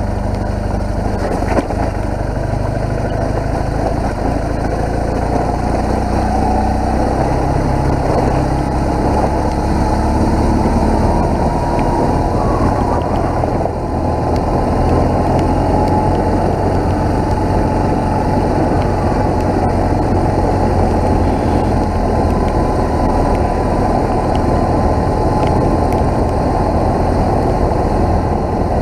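BMW R1200GS boxer-twin engine running while the motorcycle is under way, loud and steady, mixed with wind and road noise. The engine pitch shifts gently as the speed changes.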